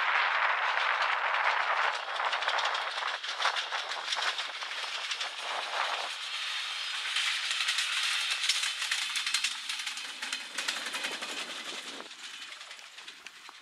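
Siemens Desiro diesel railcar passing by and pulling away: its engine and the wheels on the rails fade away near the end.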